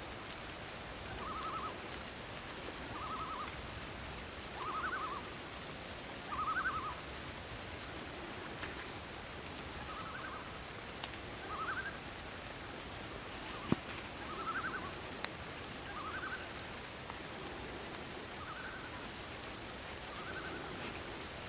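Night forest ambience: a short trilled call repeats about every one and a half to two seconds over a steady hiss, with one sharp click about two-thirds of the way through.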